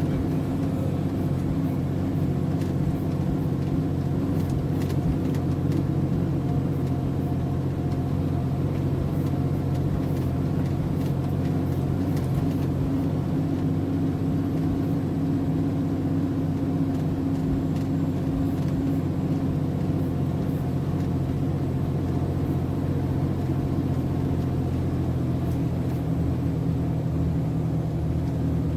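MAN TGS 33.480 lorry's diesel engine running steadily, a constant low drone with only slight changes in pitch.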